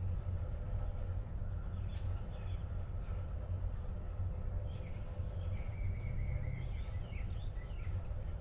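Outdoor ambience: a steady low rumble under scattered bird chirps and calls, with one held, even note about two-thirds of the way in.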